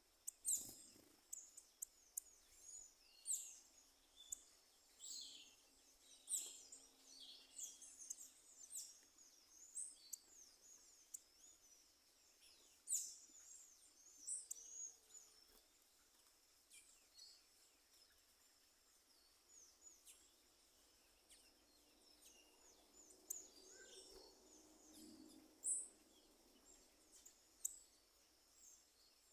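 Birds singing: many short, high chirps and quick trills in overlapping clusters, busiest in the first half, over a faint steady high tone.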